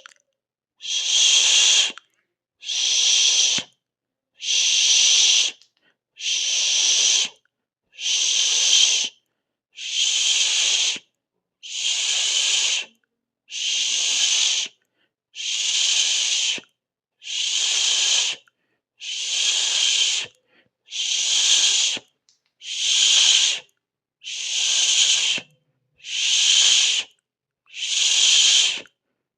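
A person hissing a long 'sss' through the teeth, over and over: a rhythmic series of hisses, each a little over a second long, with short silent gaps, about one every two seconds.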